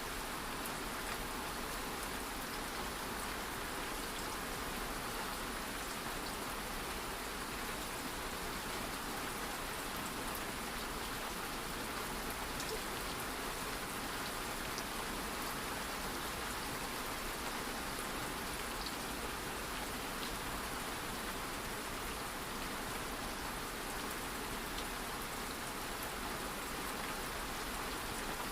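Light rain falling steadily, an even hiss with scattered small drop ticks.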